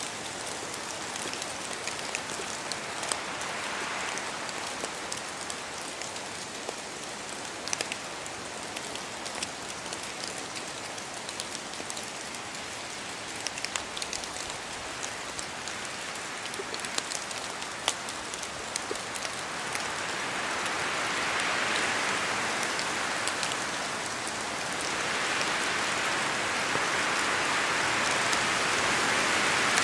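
Steady rain in a forest, with many separate drops falling from the trees and ticking throughout. A rushing gust of wind swells up briefly about four seconds in, then more strongly over the last third, where the sound grows louder.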